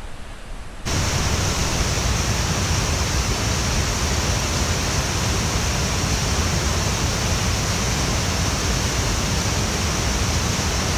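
Loud, steady rushing of river water below a waterfall, cutting in abruptly about a second in.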